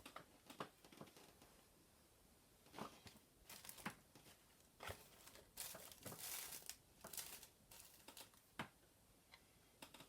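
Faint handling noises: scattered small clicks and brief crinkly rustles, busiest about halfway through.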